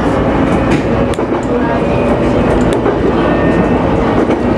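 Electric local train running along the line, heard from inside the front car: a steady wheel-and-rail rumble with scattered sharp clicks.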